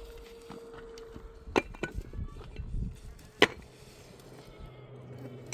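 A few sharp knocks, the loudest about three and a half seconds in, with softer thuds between them; a faint steady hum stops just before the first knock.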